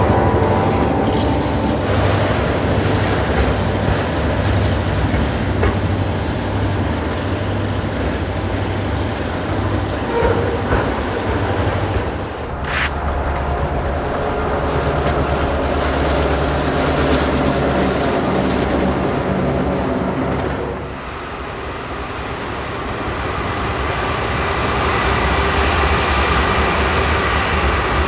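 Diesel freight locomotives running past with a train, a steady low engine drone over the rumble and clack of wheels on the rails. The sound changes abruptly twice, about a third and three quarters of the way through, as a different train is heard.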